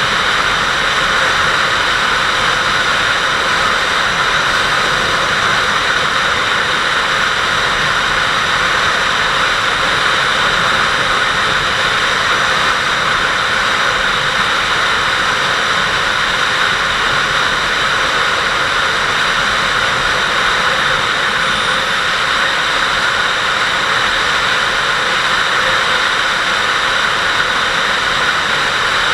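Steady rush of wind over the camera microphone on a moving Kawasaki Vulcan 800 motorcycle, with the ride's engine and road noise under it.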